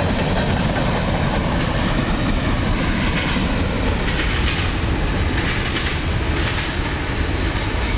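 Freight train rolling past at close range: a steady rumble of steel wheels on the rails, with a few sharper clacks a few seconds in.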